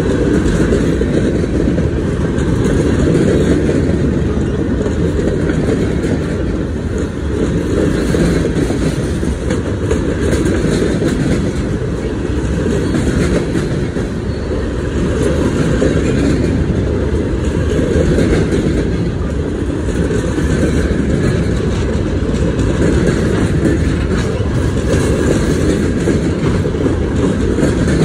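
Freight train gondola cars rolling past at speed: a loud, steady rumble of steel wheels on the rails.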